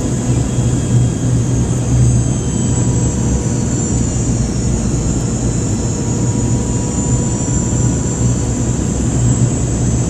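Boeing 717-200's rear-mounted Rolls-Royce BR715 turbofan engines heard inside the cabin near the tail: a steady loud roar with a low hum and a high whine that drifts slowly in pitch.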